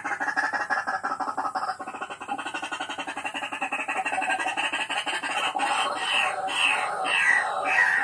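A bird calling over and over with harsh falling notes, about two a second, starting around halfway through and growing louder. Under it runs a dense, fast-pulsing chorus of calls.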